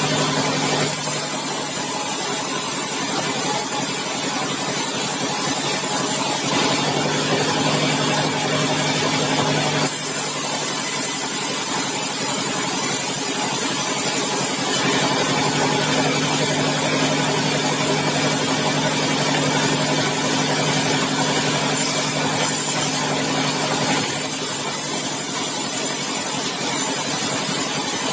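Sawmill machinery running loudly and steadily while sawing a bengkirai hardwood log. The sound switches every few seconds between a low hum and a hissing cut.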